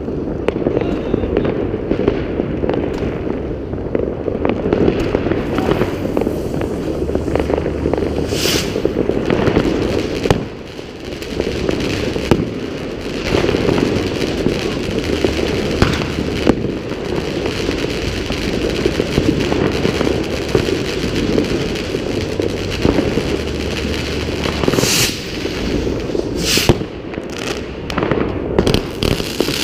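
New Year's Eve fireworks and firecrackers going off without pause, many bangs near and far merging into a constant rumbling crackle. A few sharper, brighter bursts stand out about eight seconds in and again near the end.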